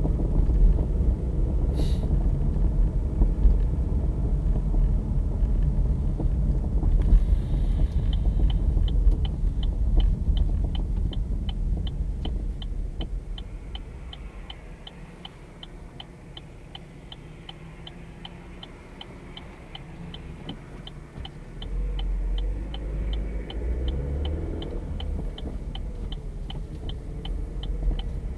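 Heavy low road rumble inside a moving Opel Astra J. The rumble dies down about halfway as the car slows and picks up again near the end. From about eight seconds in, a steady ticking of about two to three ticks a second, typical of the turn-signal relay.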